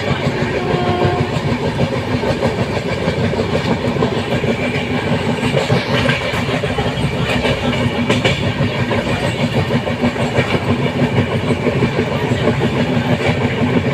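Train running along the track: a steady, loud rumble of rail and wheel noise with a few brief clicks near the middle.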